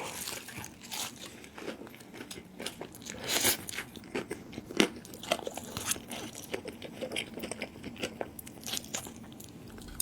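Close-miked eating: crunchy bites and chewing, a rapid run of sharp crackles with a few louder crunches near the middle.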